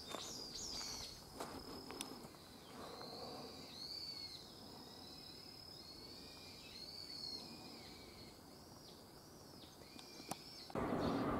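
Birds calling outdoors in dense greenery: repeated short arching chirps, with a thin steady high tone under them in the first half. Near the end a much louder steady rushing noise starts abruptly.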